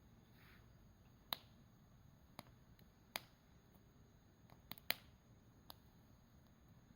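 Campfire crackling: sparse, irregular sharp pops from the burning wood, a few seconds apart, with a quick cluster about 5 seconds in.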